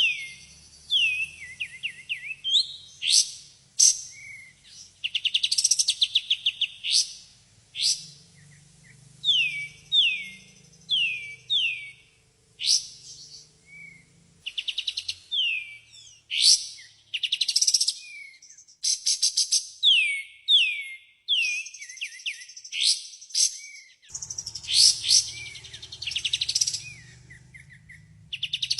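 Kapas tembak (a songbird kept by Indonesian bird fanciers) singing a continuous, varied song of quick descending whistled slurs, fast rattling trills and sharp high chips, repeated phrase after phrase. It is a lure recording played to make caged birds answer.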